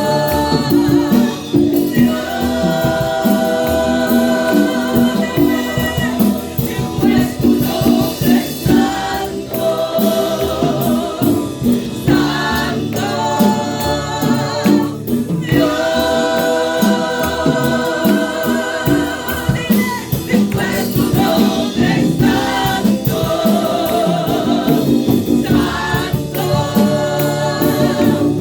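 Worship music: a group of voices singing a praise song in long held phrases of a few seconds each, over a band with a steady beat.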